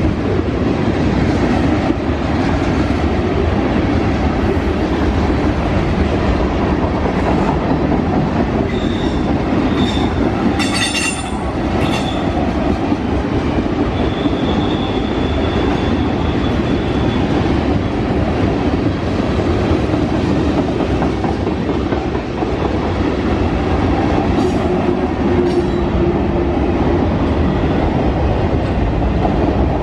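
A Buffalo & Pittsburgh Railroad freight train rolling past at close range, with a steady loud rumble and clatter of wheels on rail. Brief wheel squeals come about a third of the way in, and a few sharp clanks come in the middle and later.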